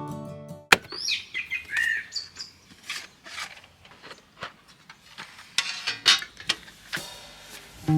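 Small birds chirping in short calls that rise and fall, mostly in the first couple of seconds, among scattered soft clicks and rustles.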